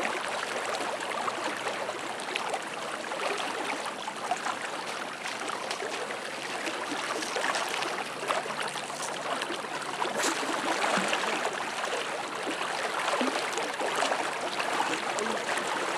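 Steady rush of fast-flowing, flood-swollen river water, with a few faint ticks.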